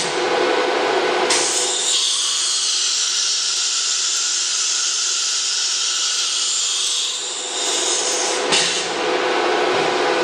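CNC router machinery running: a loud, even high-pitched hiss starts about a second in and cuts off about eight and a half seconds in, over a steady machine hum.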